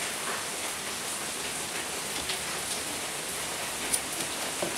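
Steady rain of a heavy thunderstorm falling, with a sharp click about four seconds in and a few small ticks near the end.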